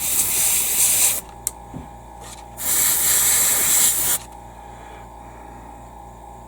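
Airbrush spraying acrylic paint in two short bursts of hiss, each a second or so long.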